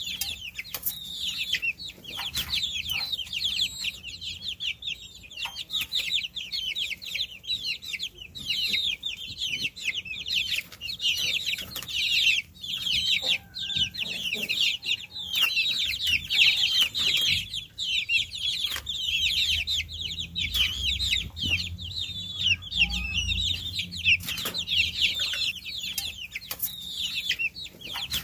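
A brood of baby chicks peeping continuously, many overlapping short high chirps, each a quick downward sweep.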